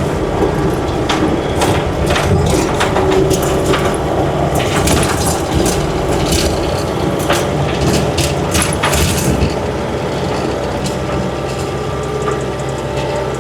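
Takeuchi TL8 skid steer's diesel engine running steadily while the machine is operated, with frequent sharp cracks and clanks from the machine working, fewer of them in the last few seconds.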